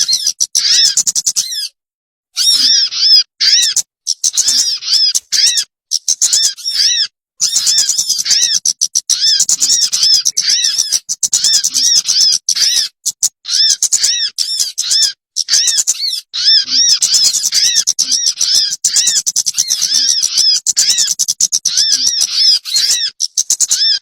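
Recorded bird calls used as a lure: a fast, continuous chatter of short, high, arched notes, broken now and then by brief silent gaps.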